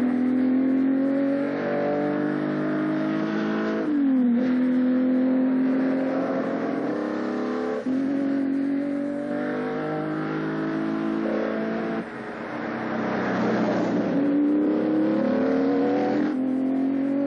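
Ferrari Testarossa's V12 engine accelerating hard through the gears, its pitch climbing steadily and then dropping sharply at each of four upshifts, about every four seconds.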